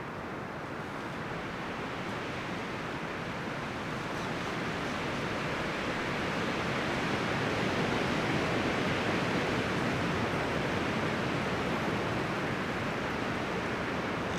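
Wind rustling through forest leaves and branches in a steady hiss that swells into a stronger gust about halfway through, then eases a little.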